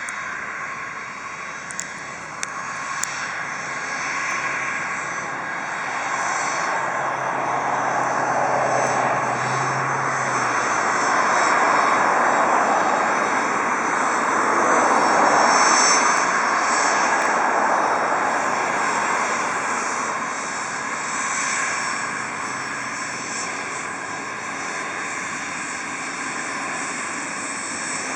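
Medevac airplane's engine running as it taxis with its engine cowling open. The steady engine noise builds to its loudest around the middle and eases off afterwards.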